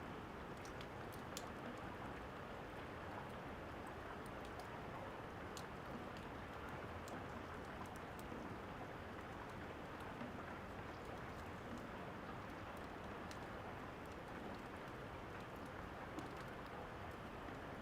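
Steady rain with scattered sharp crackles and pops of a fire.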